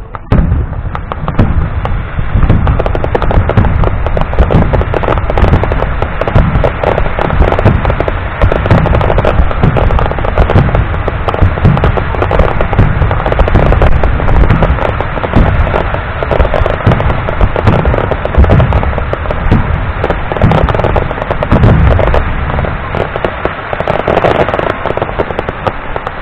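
Fireworks display: a dense, unbroken barrage of deep shell booms overlaid with constant sharp crackling.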